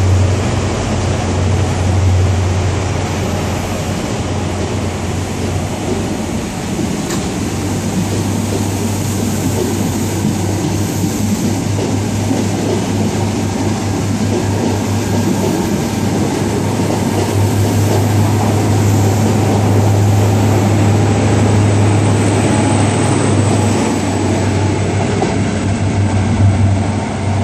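InterCity 125 High Speed Train's Mark 3 coaches rolling past along the platform, wheels rumbling on the rails over a steady, pulsing low diesel drone.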